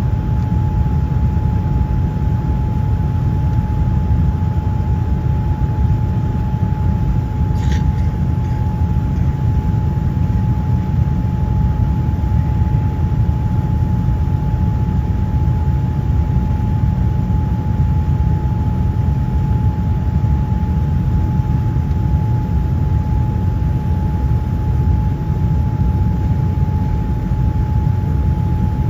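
Airliner cabin noise in flight: a steady, loud low rumble of engines and rushing air, with a constant thin whine running through it and a brief faint chirp about eight seconds in.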